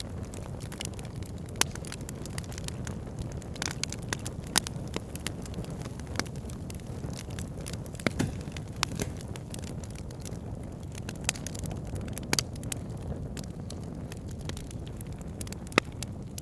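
Wood fire burning in a fireplace: a steady low rumble of flames with frequent sharp crackles and pops, a few of them louder snaps.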